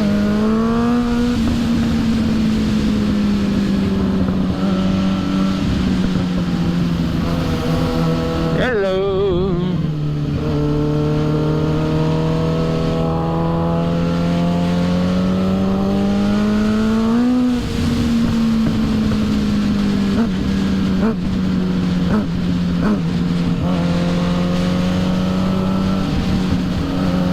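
2006 Suzuki GSX-R 750's inline-four engine running under way at cruising speed. Its note rises and falls slowly with the throttle, climbs for several seconds, then drops sharply about seventeen seconds in, as at a gear change.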